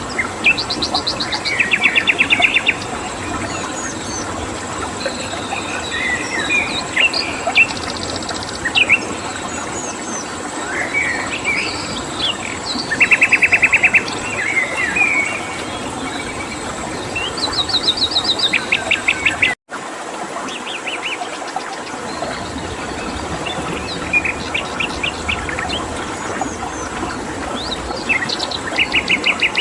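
Several small birds chirping and singing, with repeated rapid trills of about a second and a half each, over a steady hiss of running water and a faint steady high insect-like tone. The sound cuts out for an instant about twenty seconds in.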